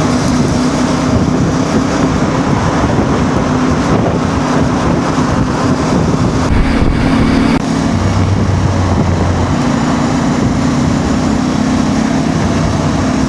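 CF Moto 450 MT's parallel-twin engine running under way at a steady pitch, with wind noise over the microphone; the sound dips briefly about seven and a half seconds in.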